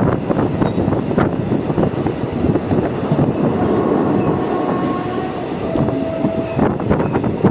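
Passenger train running on the track, heard from aboard: a steady rumble with occasional knocks of the wheels over rail joints. A thin squeal comes in for a couple of seconds around the middle.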